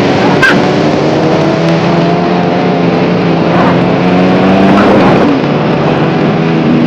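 Motorcycle engine running under way, its pitch rising and falling a few times as the throttle opens and eases off, with wind and traffic noise on the microphone.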